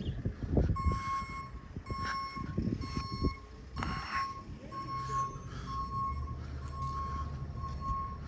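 A vehicle's reversing alarm beeping steadily about once a second, with an engine running underneath from about halfway.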